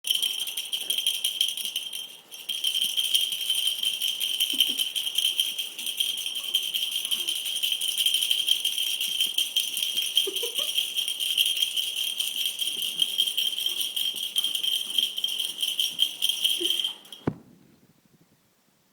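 A rattle shaken fast and without a break, a dense clatter with a steady high ring over it. It dips briefly about two seconds in and stops suddenly near the end.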